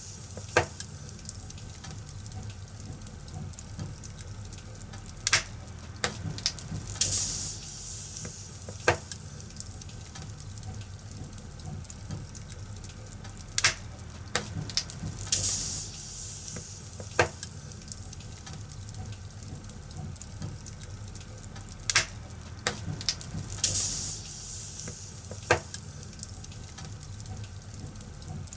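Wood fire crackling: a steady hiss with sharp pops every second or few, the same pattern of pops coming round about every eight seconds, as a loop does.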